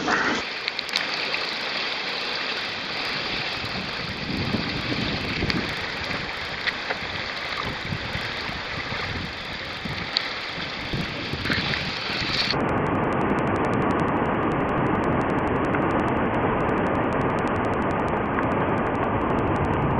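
Water rushing and splashing along a weir chute, with wind buffeting the microphone and scattered splashes. About twelve seconds in the sound cuts abruptly to a duller, steady rushing noise.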